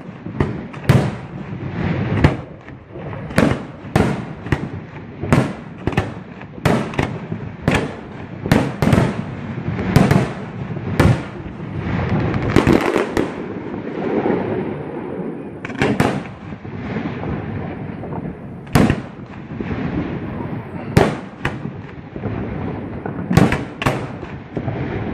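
Fireworks going off: a long run of sharp bangs, roughly one a second, with rumbling and crackling between them.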